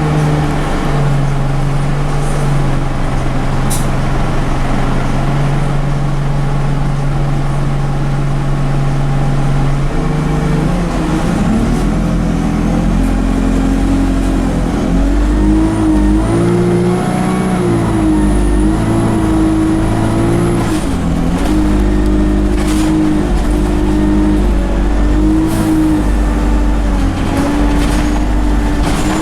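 Scania bus's diesel engine running: a steady note for about ten seconds, then rising and falling in pitch in steps as the bus pulls away and moves through its gears.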